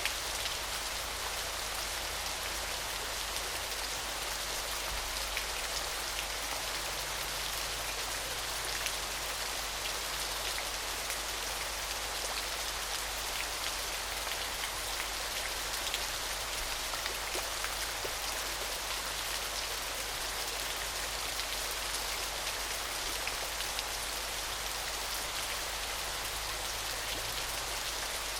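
Small waterfall splashing steadily: an even, shimmering hiss of falling water, full of fine droplet patters.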